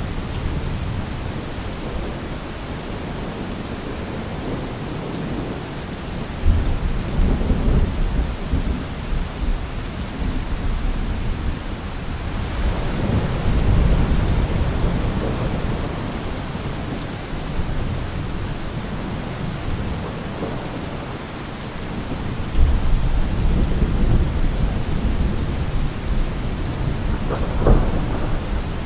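Steady heavy rain with thunder rolling through several times: deep rumbles swell about a quarter of the way in, again near the middle and again about three quarters through, with a sharper thunder crack near the end.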